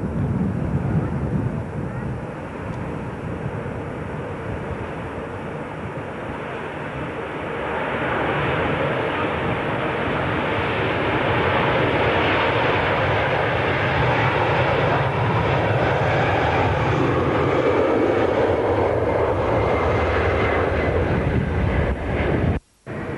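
Airliner engines heard close by, the noise swelling about a third of the way in and staying loud. It cuts out abruptly for a moment near the end.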